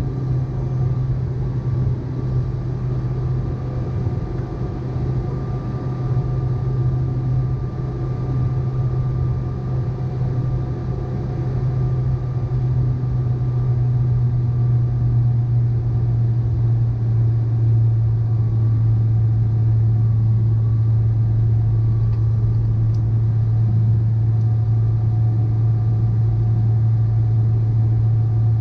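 Boeing 777-300ER's GE90 engines running steadily at low power: a deep, even hum with faint steady whining tones above it, growing somewhat louder about halfway through.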